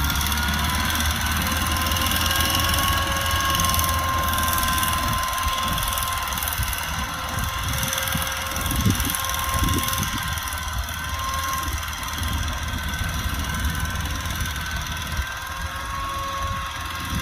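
Kubota tractor's diesel engine running steadily, with a high whine that rises slightly in pitch at the start and then holds.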